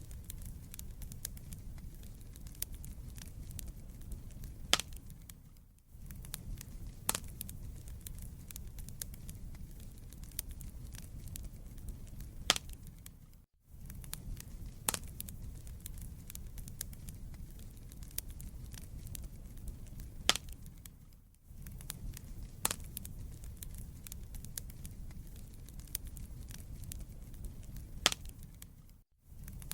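Wood fire in a fireplace crackling, with a steady low rumble of flames and scattered sharp pops from the burning logs. The sound drops out briefly about every eight seconds.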